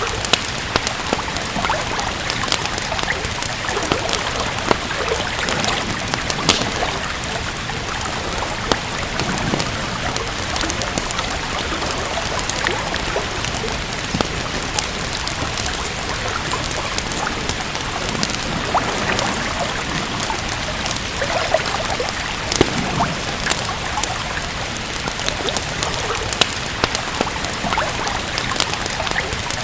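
Steady rain falling, mixed with a wood fire crackling: frequent sharp pops and snaps over an even hiss of rainfall.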